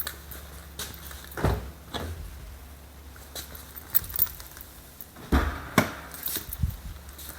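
A switched-off 2020 Toyota Corolla giving off a low, steady hum: something in the car is still running hours after shutoff. Clicks and a few louder knocks lie over the hum, about a second and a half in and again around five and a half seconds.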